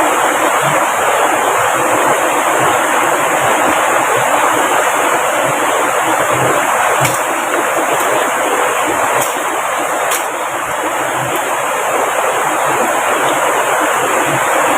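A fast-flowing river rushing steadily over rocks. A few sharp clicks come through it about halfway through.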